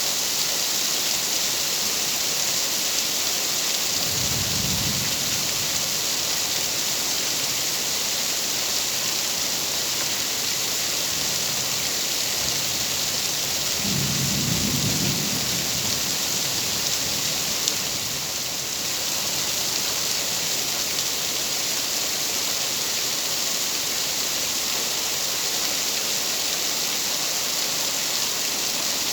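Steady rain falling with an even hiss, with two low rumbles of distant thunder, the first about four seconds in and a longer one about fourteen seconds in.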